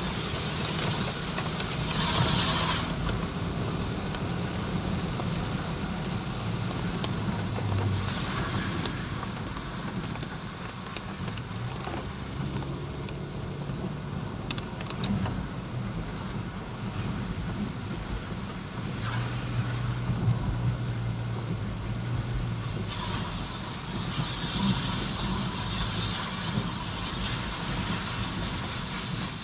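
Road vehicle noise: a steady low engine hum with road hiss that swells several times as traffic passes.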